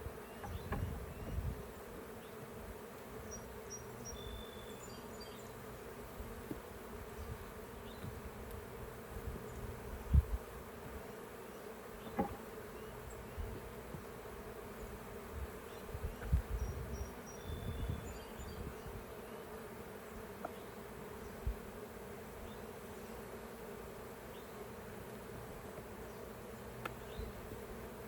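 Honeybees buzzing as a steady hum around an open hive, with a few low knocks and bumps, the loudest about ten seconds in.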